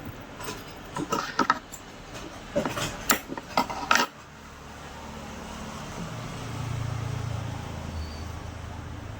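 Metal clinking and knocking, a quick irregular run of sharp strikes during the first four seconds, like tools and metal fan parts being handled. It is followed by a steady low hum.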